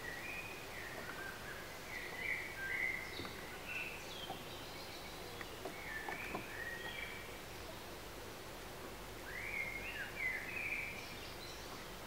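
Wild birds singing: short, high, warbling phrases that come in three bursts, near the start, in the middle and near the end, over a steady background hiss.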